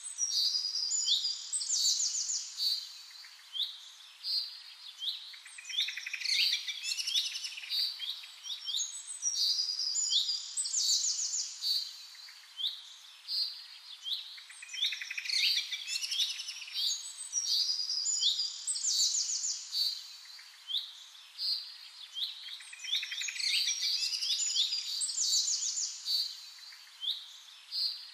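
Birds chirping and singing: short high chirps and trills overlapping. The same stretch of song recurs about every eight seconds.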